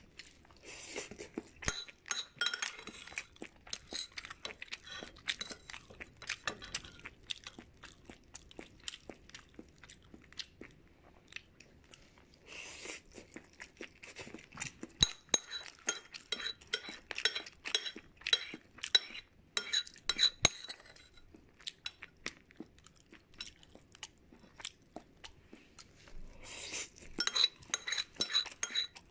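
Close-miked mouth sounds of someone eating a chicken-and-tofu dish: wet chewing and crunching in spells of rapid clicks, with quieter pauses between mouthfuls.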